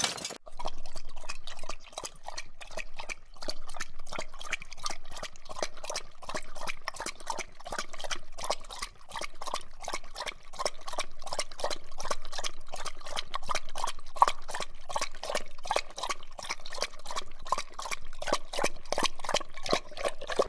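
A dog lapping water from a bowl: quick, wet laps repeating steadily several times a second.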